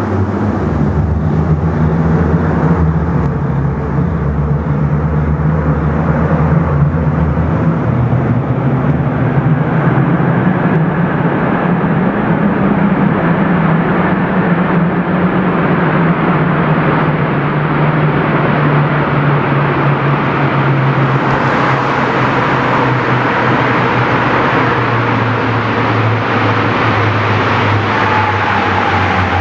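Mazdaspeed Axela's 2.3-litre turbocharged four-cylinder engine through a GP Sports EXAS EVO Tune aftermarket sports muffler, driving and accelerating, with the engine note stepping and shifting in pitch several times. A thin falling whine comes in near the end.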